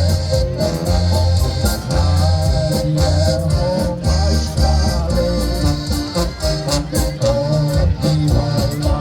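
Polka band playing live, loud and steady: an accordion carries the melody over a bass line and a regular drum and cymbal beat.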